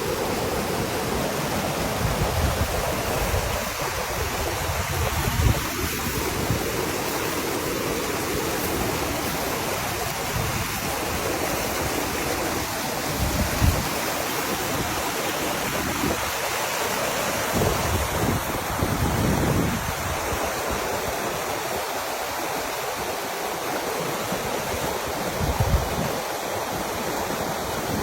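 Steady rush of a mountain stream, with a few brief low thumps of wind buffeting the microphone.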